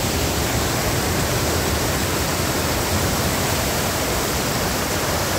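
Sirki waterfall roaring up close: a steady, even rush of falling water loud enough to drown out a voice.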